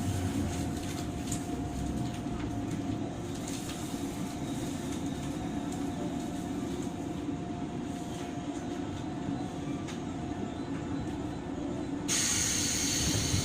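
Running sound inside a JR 103 series commuter train's motor car: a steady low rumble of wheels on rail with a faint steady hum. About 12 s in, a loud hiss starts suddenly.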